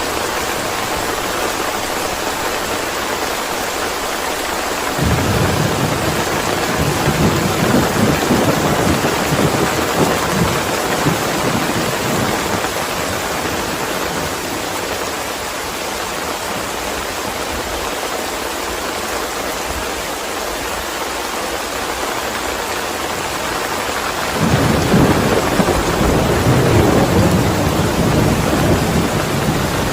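Steady rain with two long rolls of thunder. The first starts suddenly about five seconds in and fades away over several seconds. The second starts abruptly near the end.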